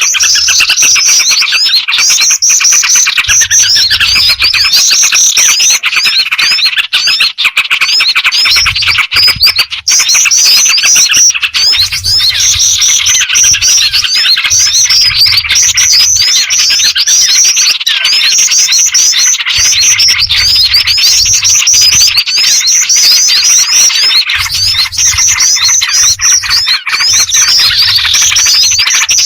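Bird-trapping lure recording: a loud, unbroken tangle of rapid small-bird chirps and twitters, mixing black-winged flycatcher-shrike (jingjing batu) calls with small-bird and yellow-vented bulbul calls. A high, fast run of chirps comes back every few seconds over the continuous chatter.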